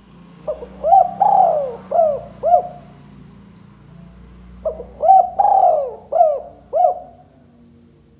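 Spotted dove (tekukur) cooing: two phrases of about five arched coo notes each, a couple of seconds apart.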